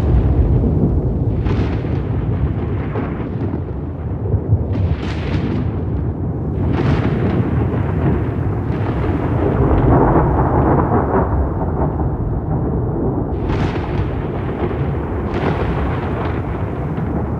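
Thunder rumbling heavily and continuously, with sharper cracks breaking through every few seconds.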